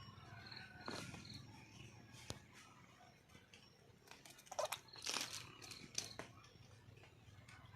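Faint calling of a wild junglefowl hen, with a brief louder call about halfway through. There are a few short high chirps about a second in, and scattered clicks.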